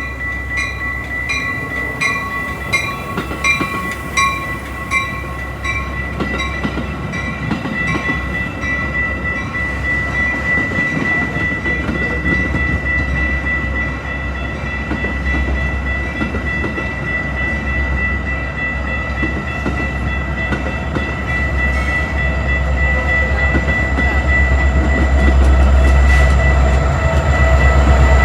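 Metra commuter train running on the tracks by the underpass, a steady rumble that grows louder toward the end as it draws nearer. A ringing strikes about twice a second during the first few seconds.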